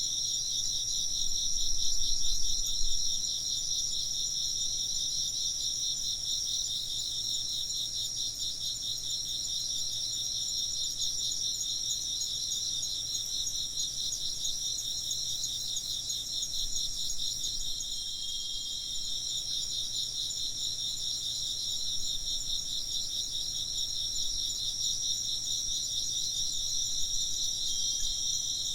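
A dense chorus of crickets chirping steadily in rapid pulsed trills. A brief low rumble comes about two seconds in.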